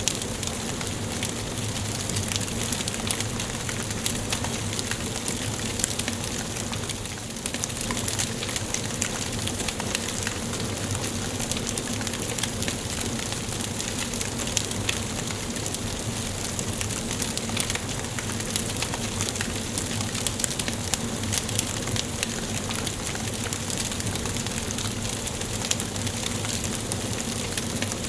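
Wood fire burning in a fireplace, crackling steadily: a dense run of small sharp pops and snaps over a soft continuous hiss.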